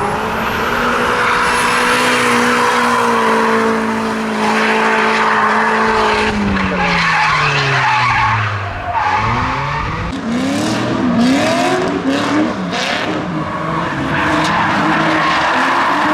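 Drift car engine held at high revs while the tyres screech, then the revs fall away over a few seconds. The engine is then blipped several times in quick succession before holding steady revs again near the end.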